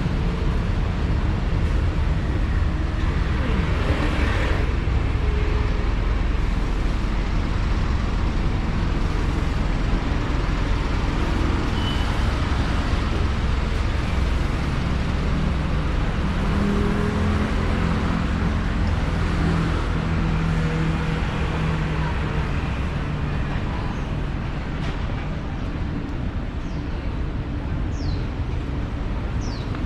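City street traffic: a steady rumble of cars and buses passing, with one vehicle's engine humming more clearly for several seconds past the middle. A few brief high squeaks come near the end.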